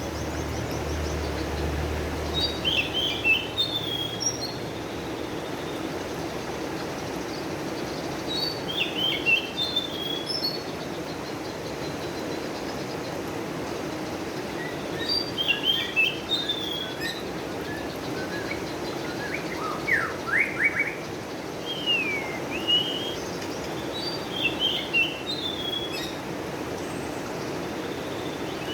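A songbird singing short, quick chirping phrases, each about a second long, repeated every few seconds, over a steady low background rush.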